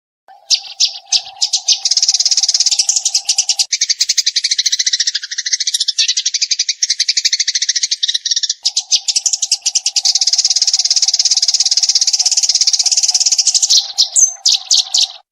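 Eurasian tree sparrow song: a rapid, unbroken string of high chirps, the fast chattering 'tembakan' phrase. It starts and stops abruptly.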